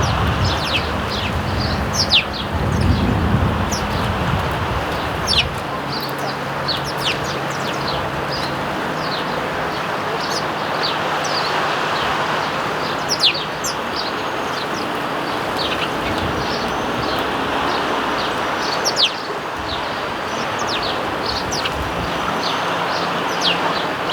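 Sparrows chirping over and over in a hedge: many short, quick chirps overlapping throughout, over a steady background hiss.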